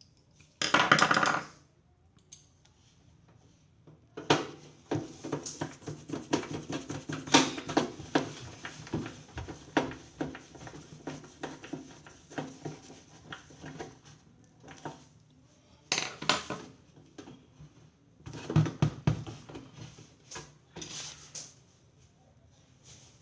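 Hard objects clattering and clicking as they are handled, in irregular runs of quick knocks, with a brief louder rasp about a second in.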